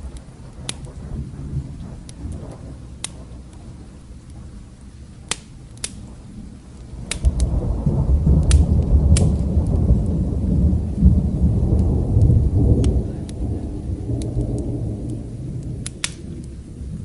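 A low roll of thunder swells about seven seconds in, rumbles for several seconds and fades away, over steady rain. Sharp pops from a crackling wood fire come at scattered moments throughout.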